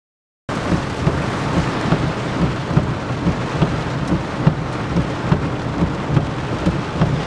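Steady rushing noise of water with an uneven low rumble underneath, starting abruptly about half a second in.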